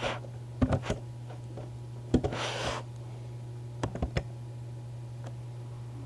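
Scattered clicks and taps, like computer keys and a mouse being used, in small groups, with a short rustle about two seconds in, over a steady low hum.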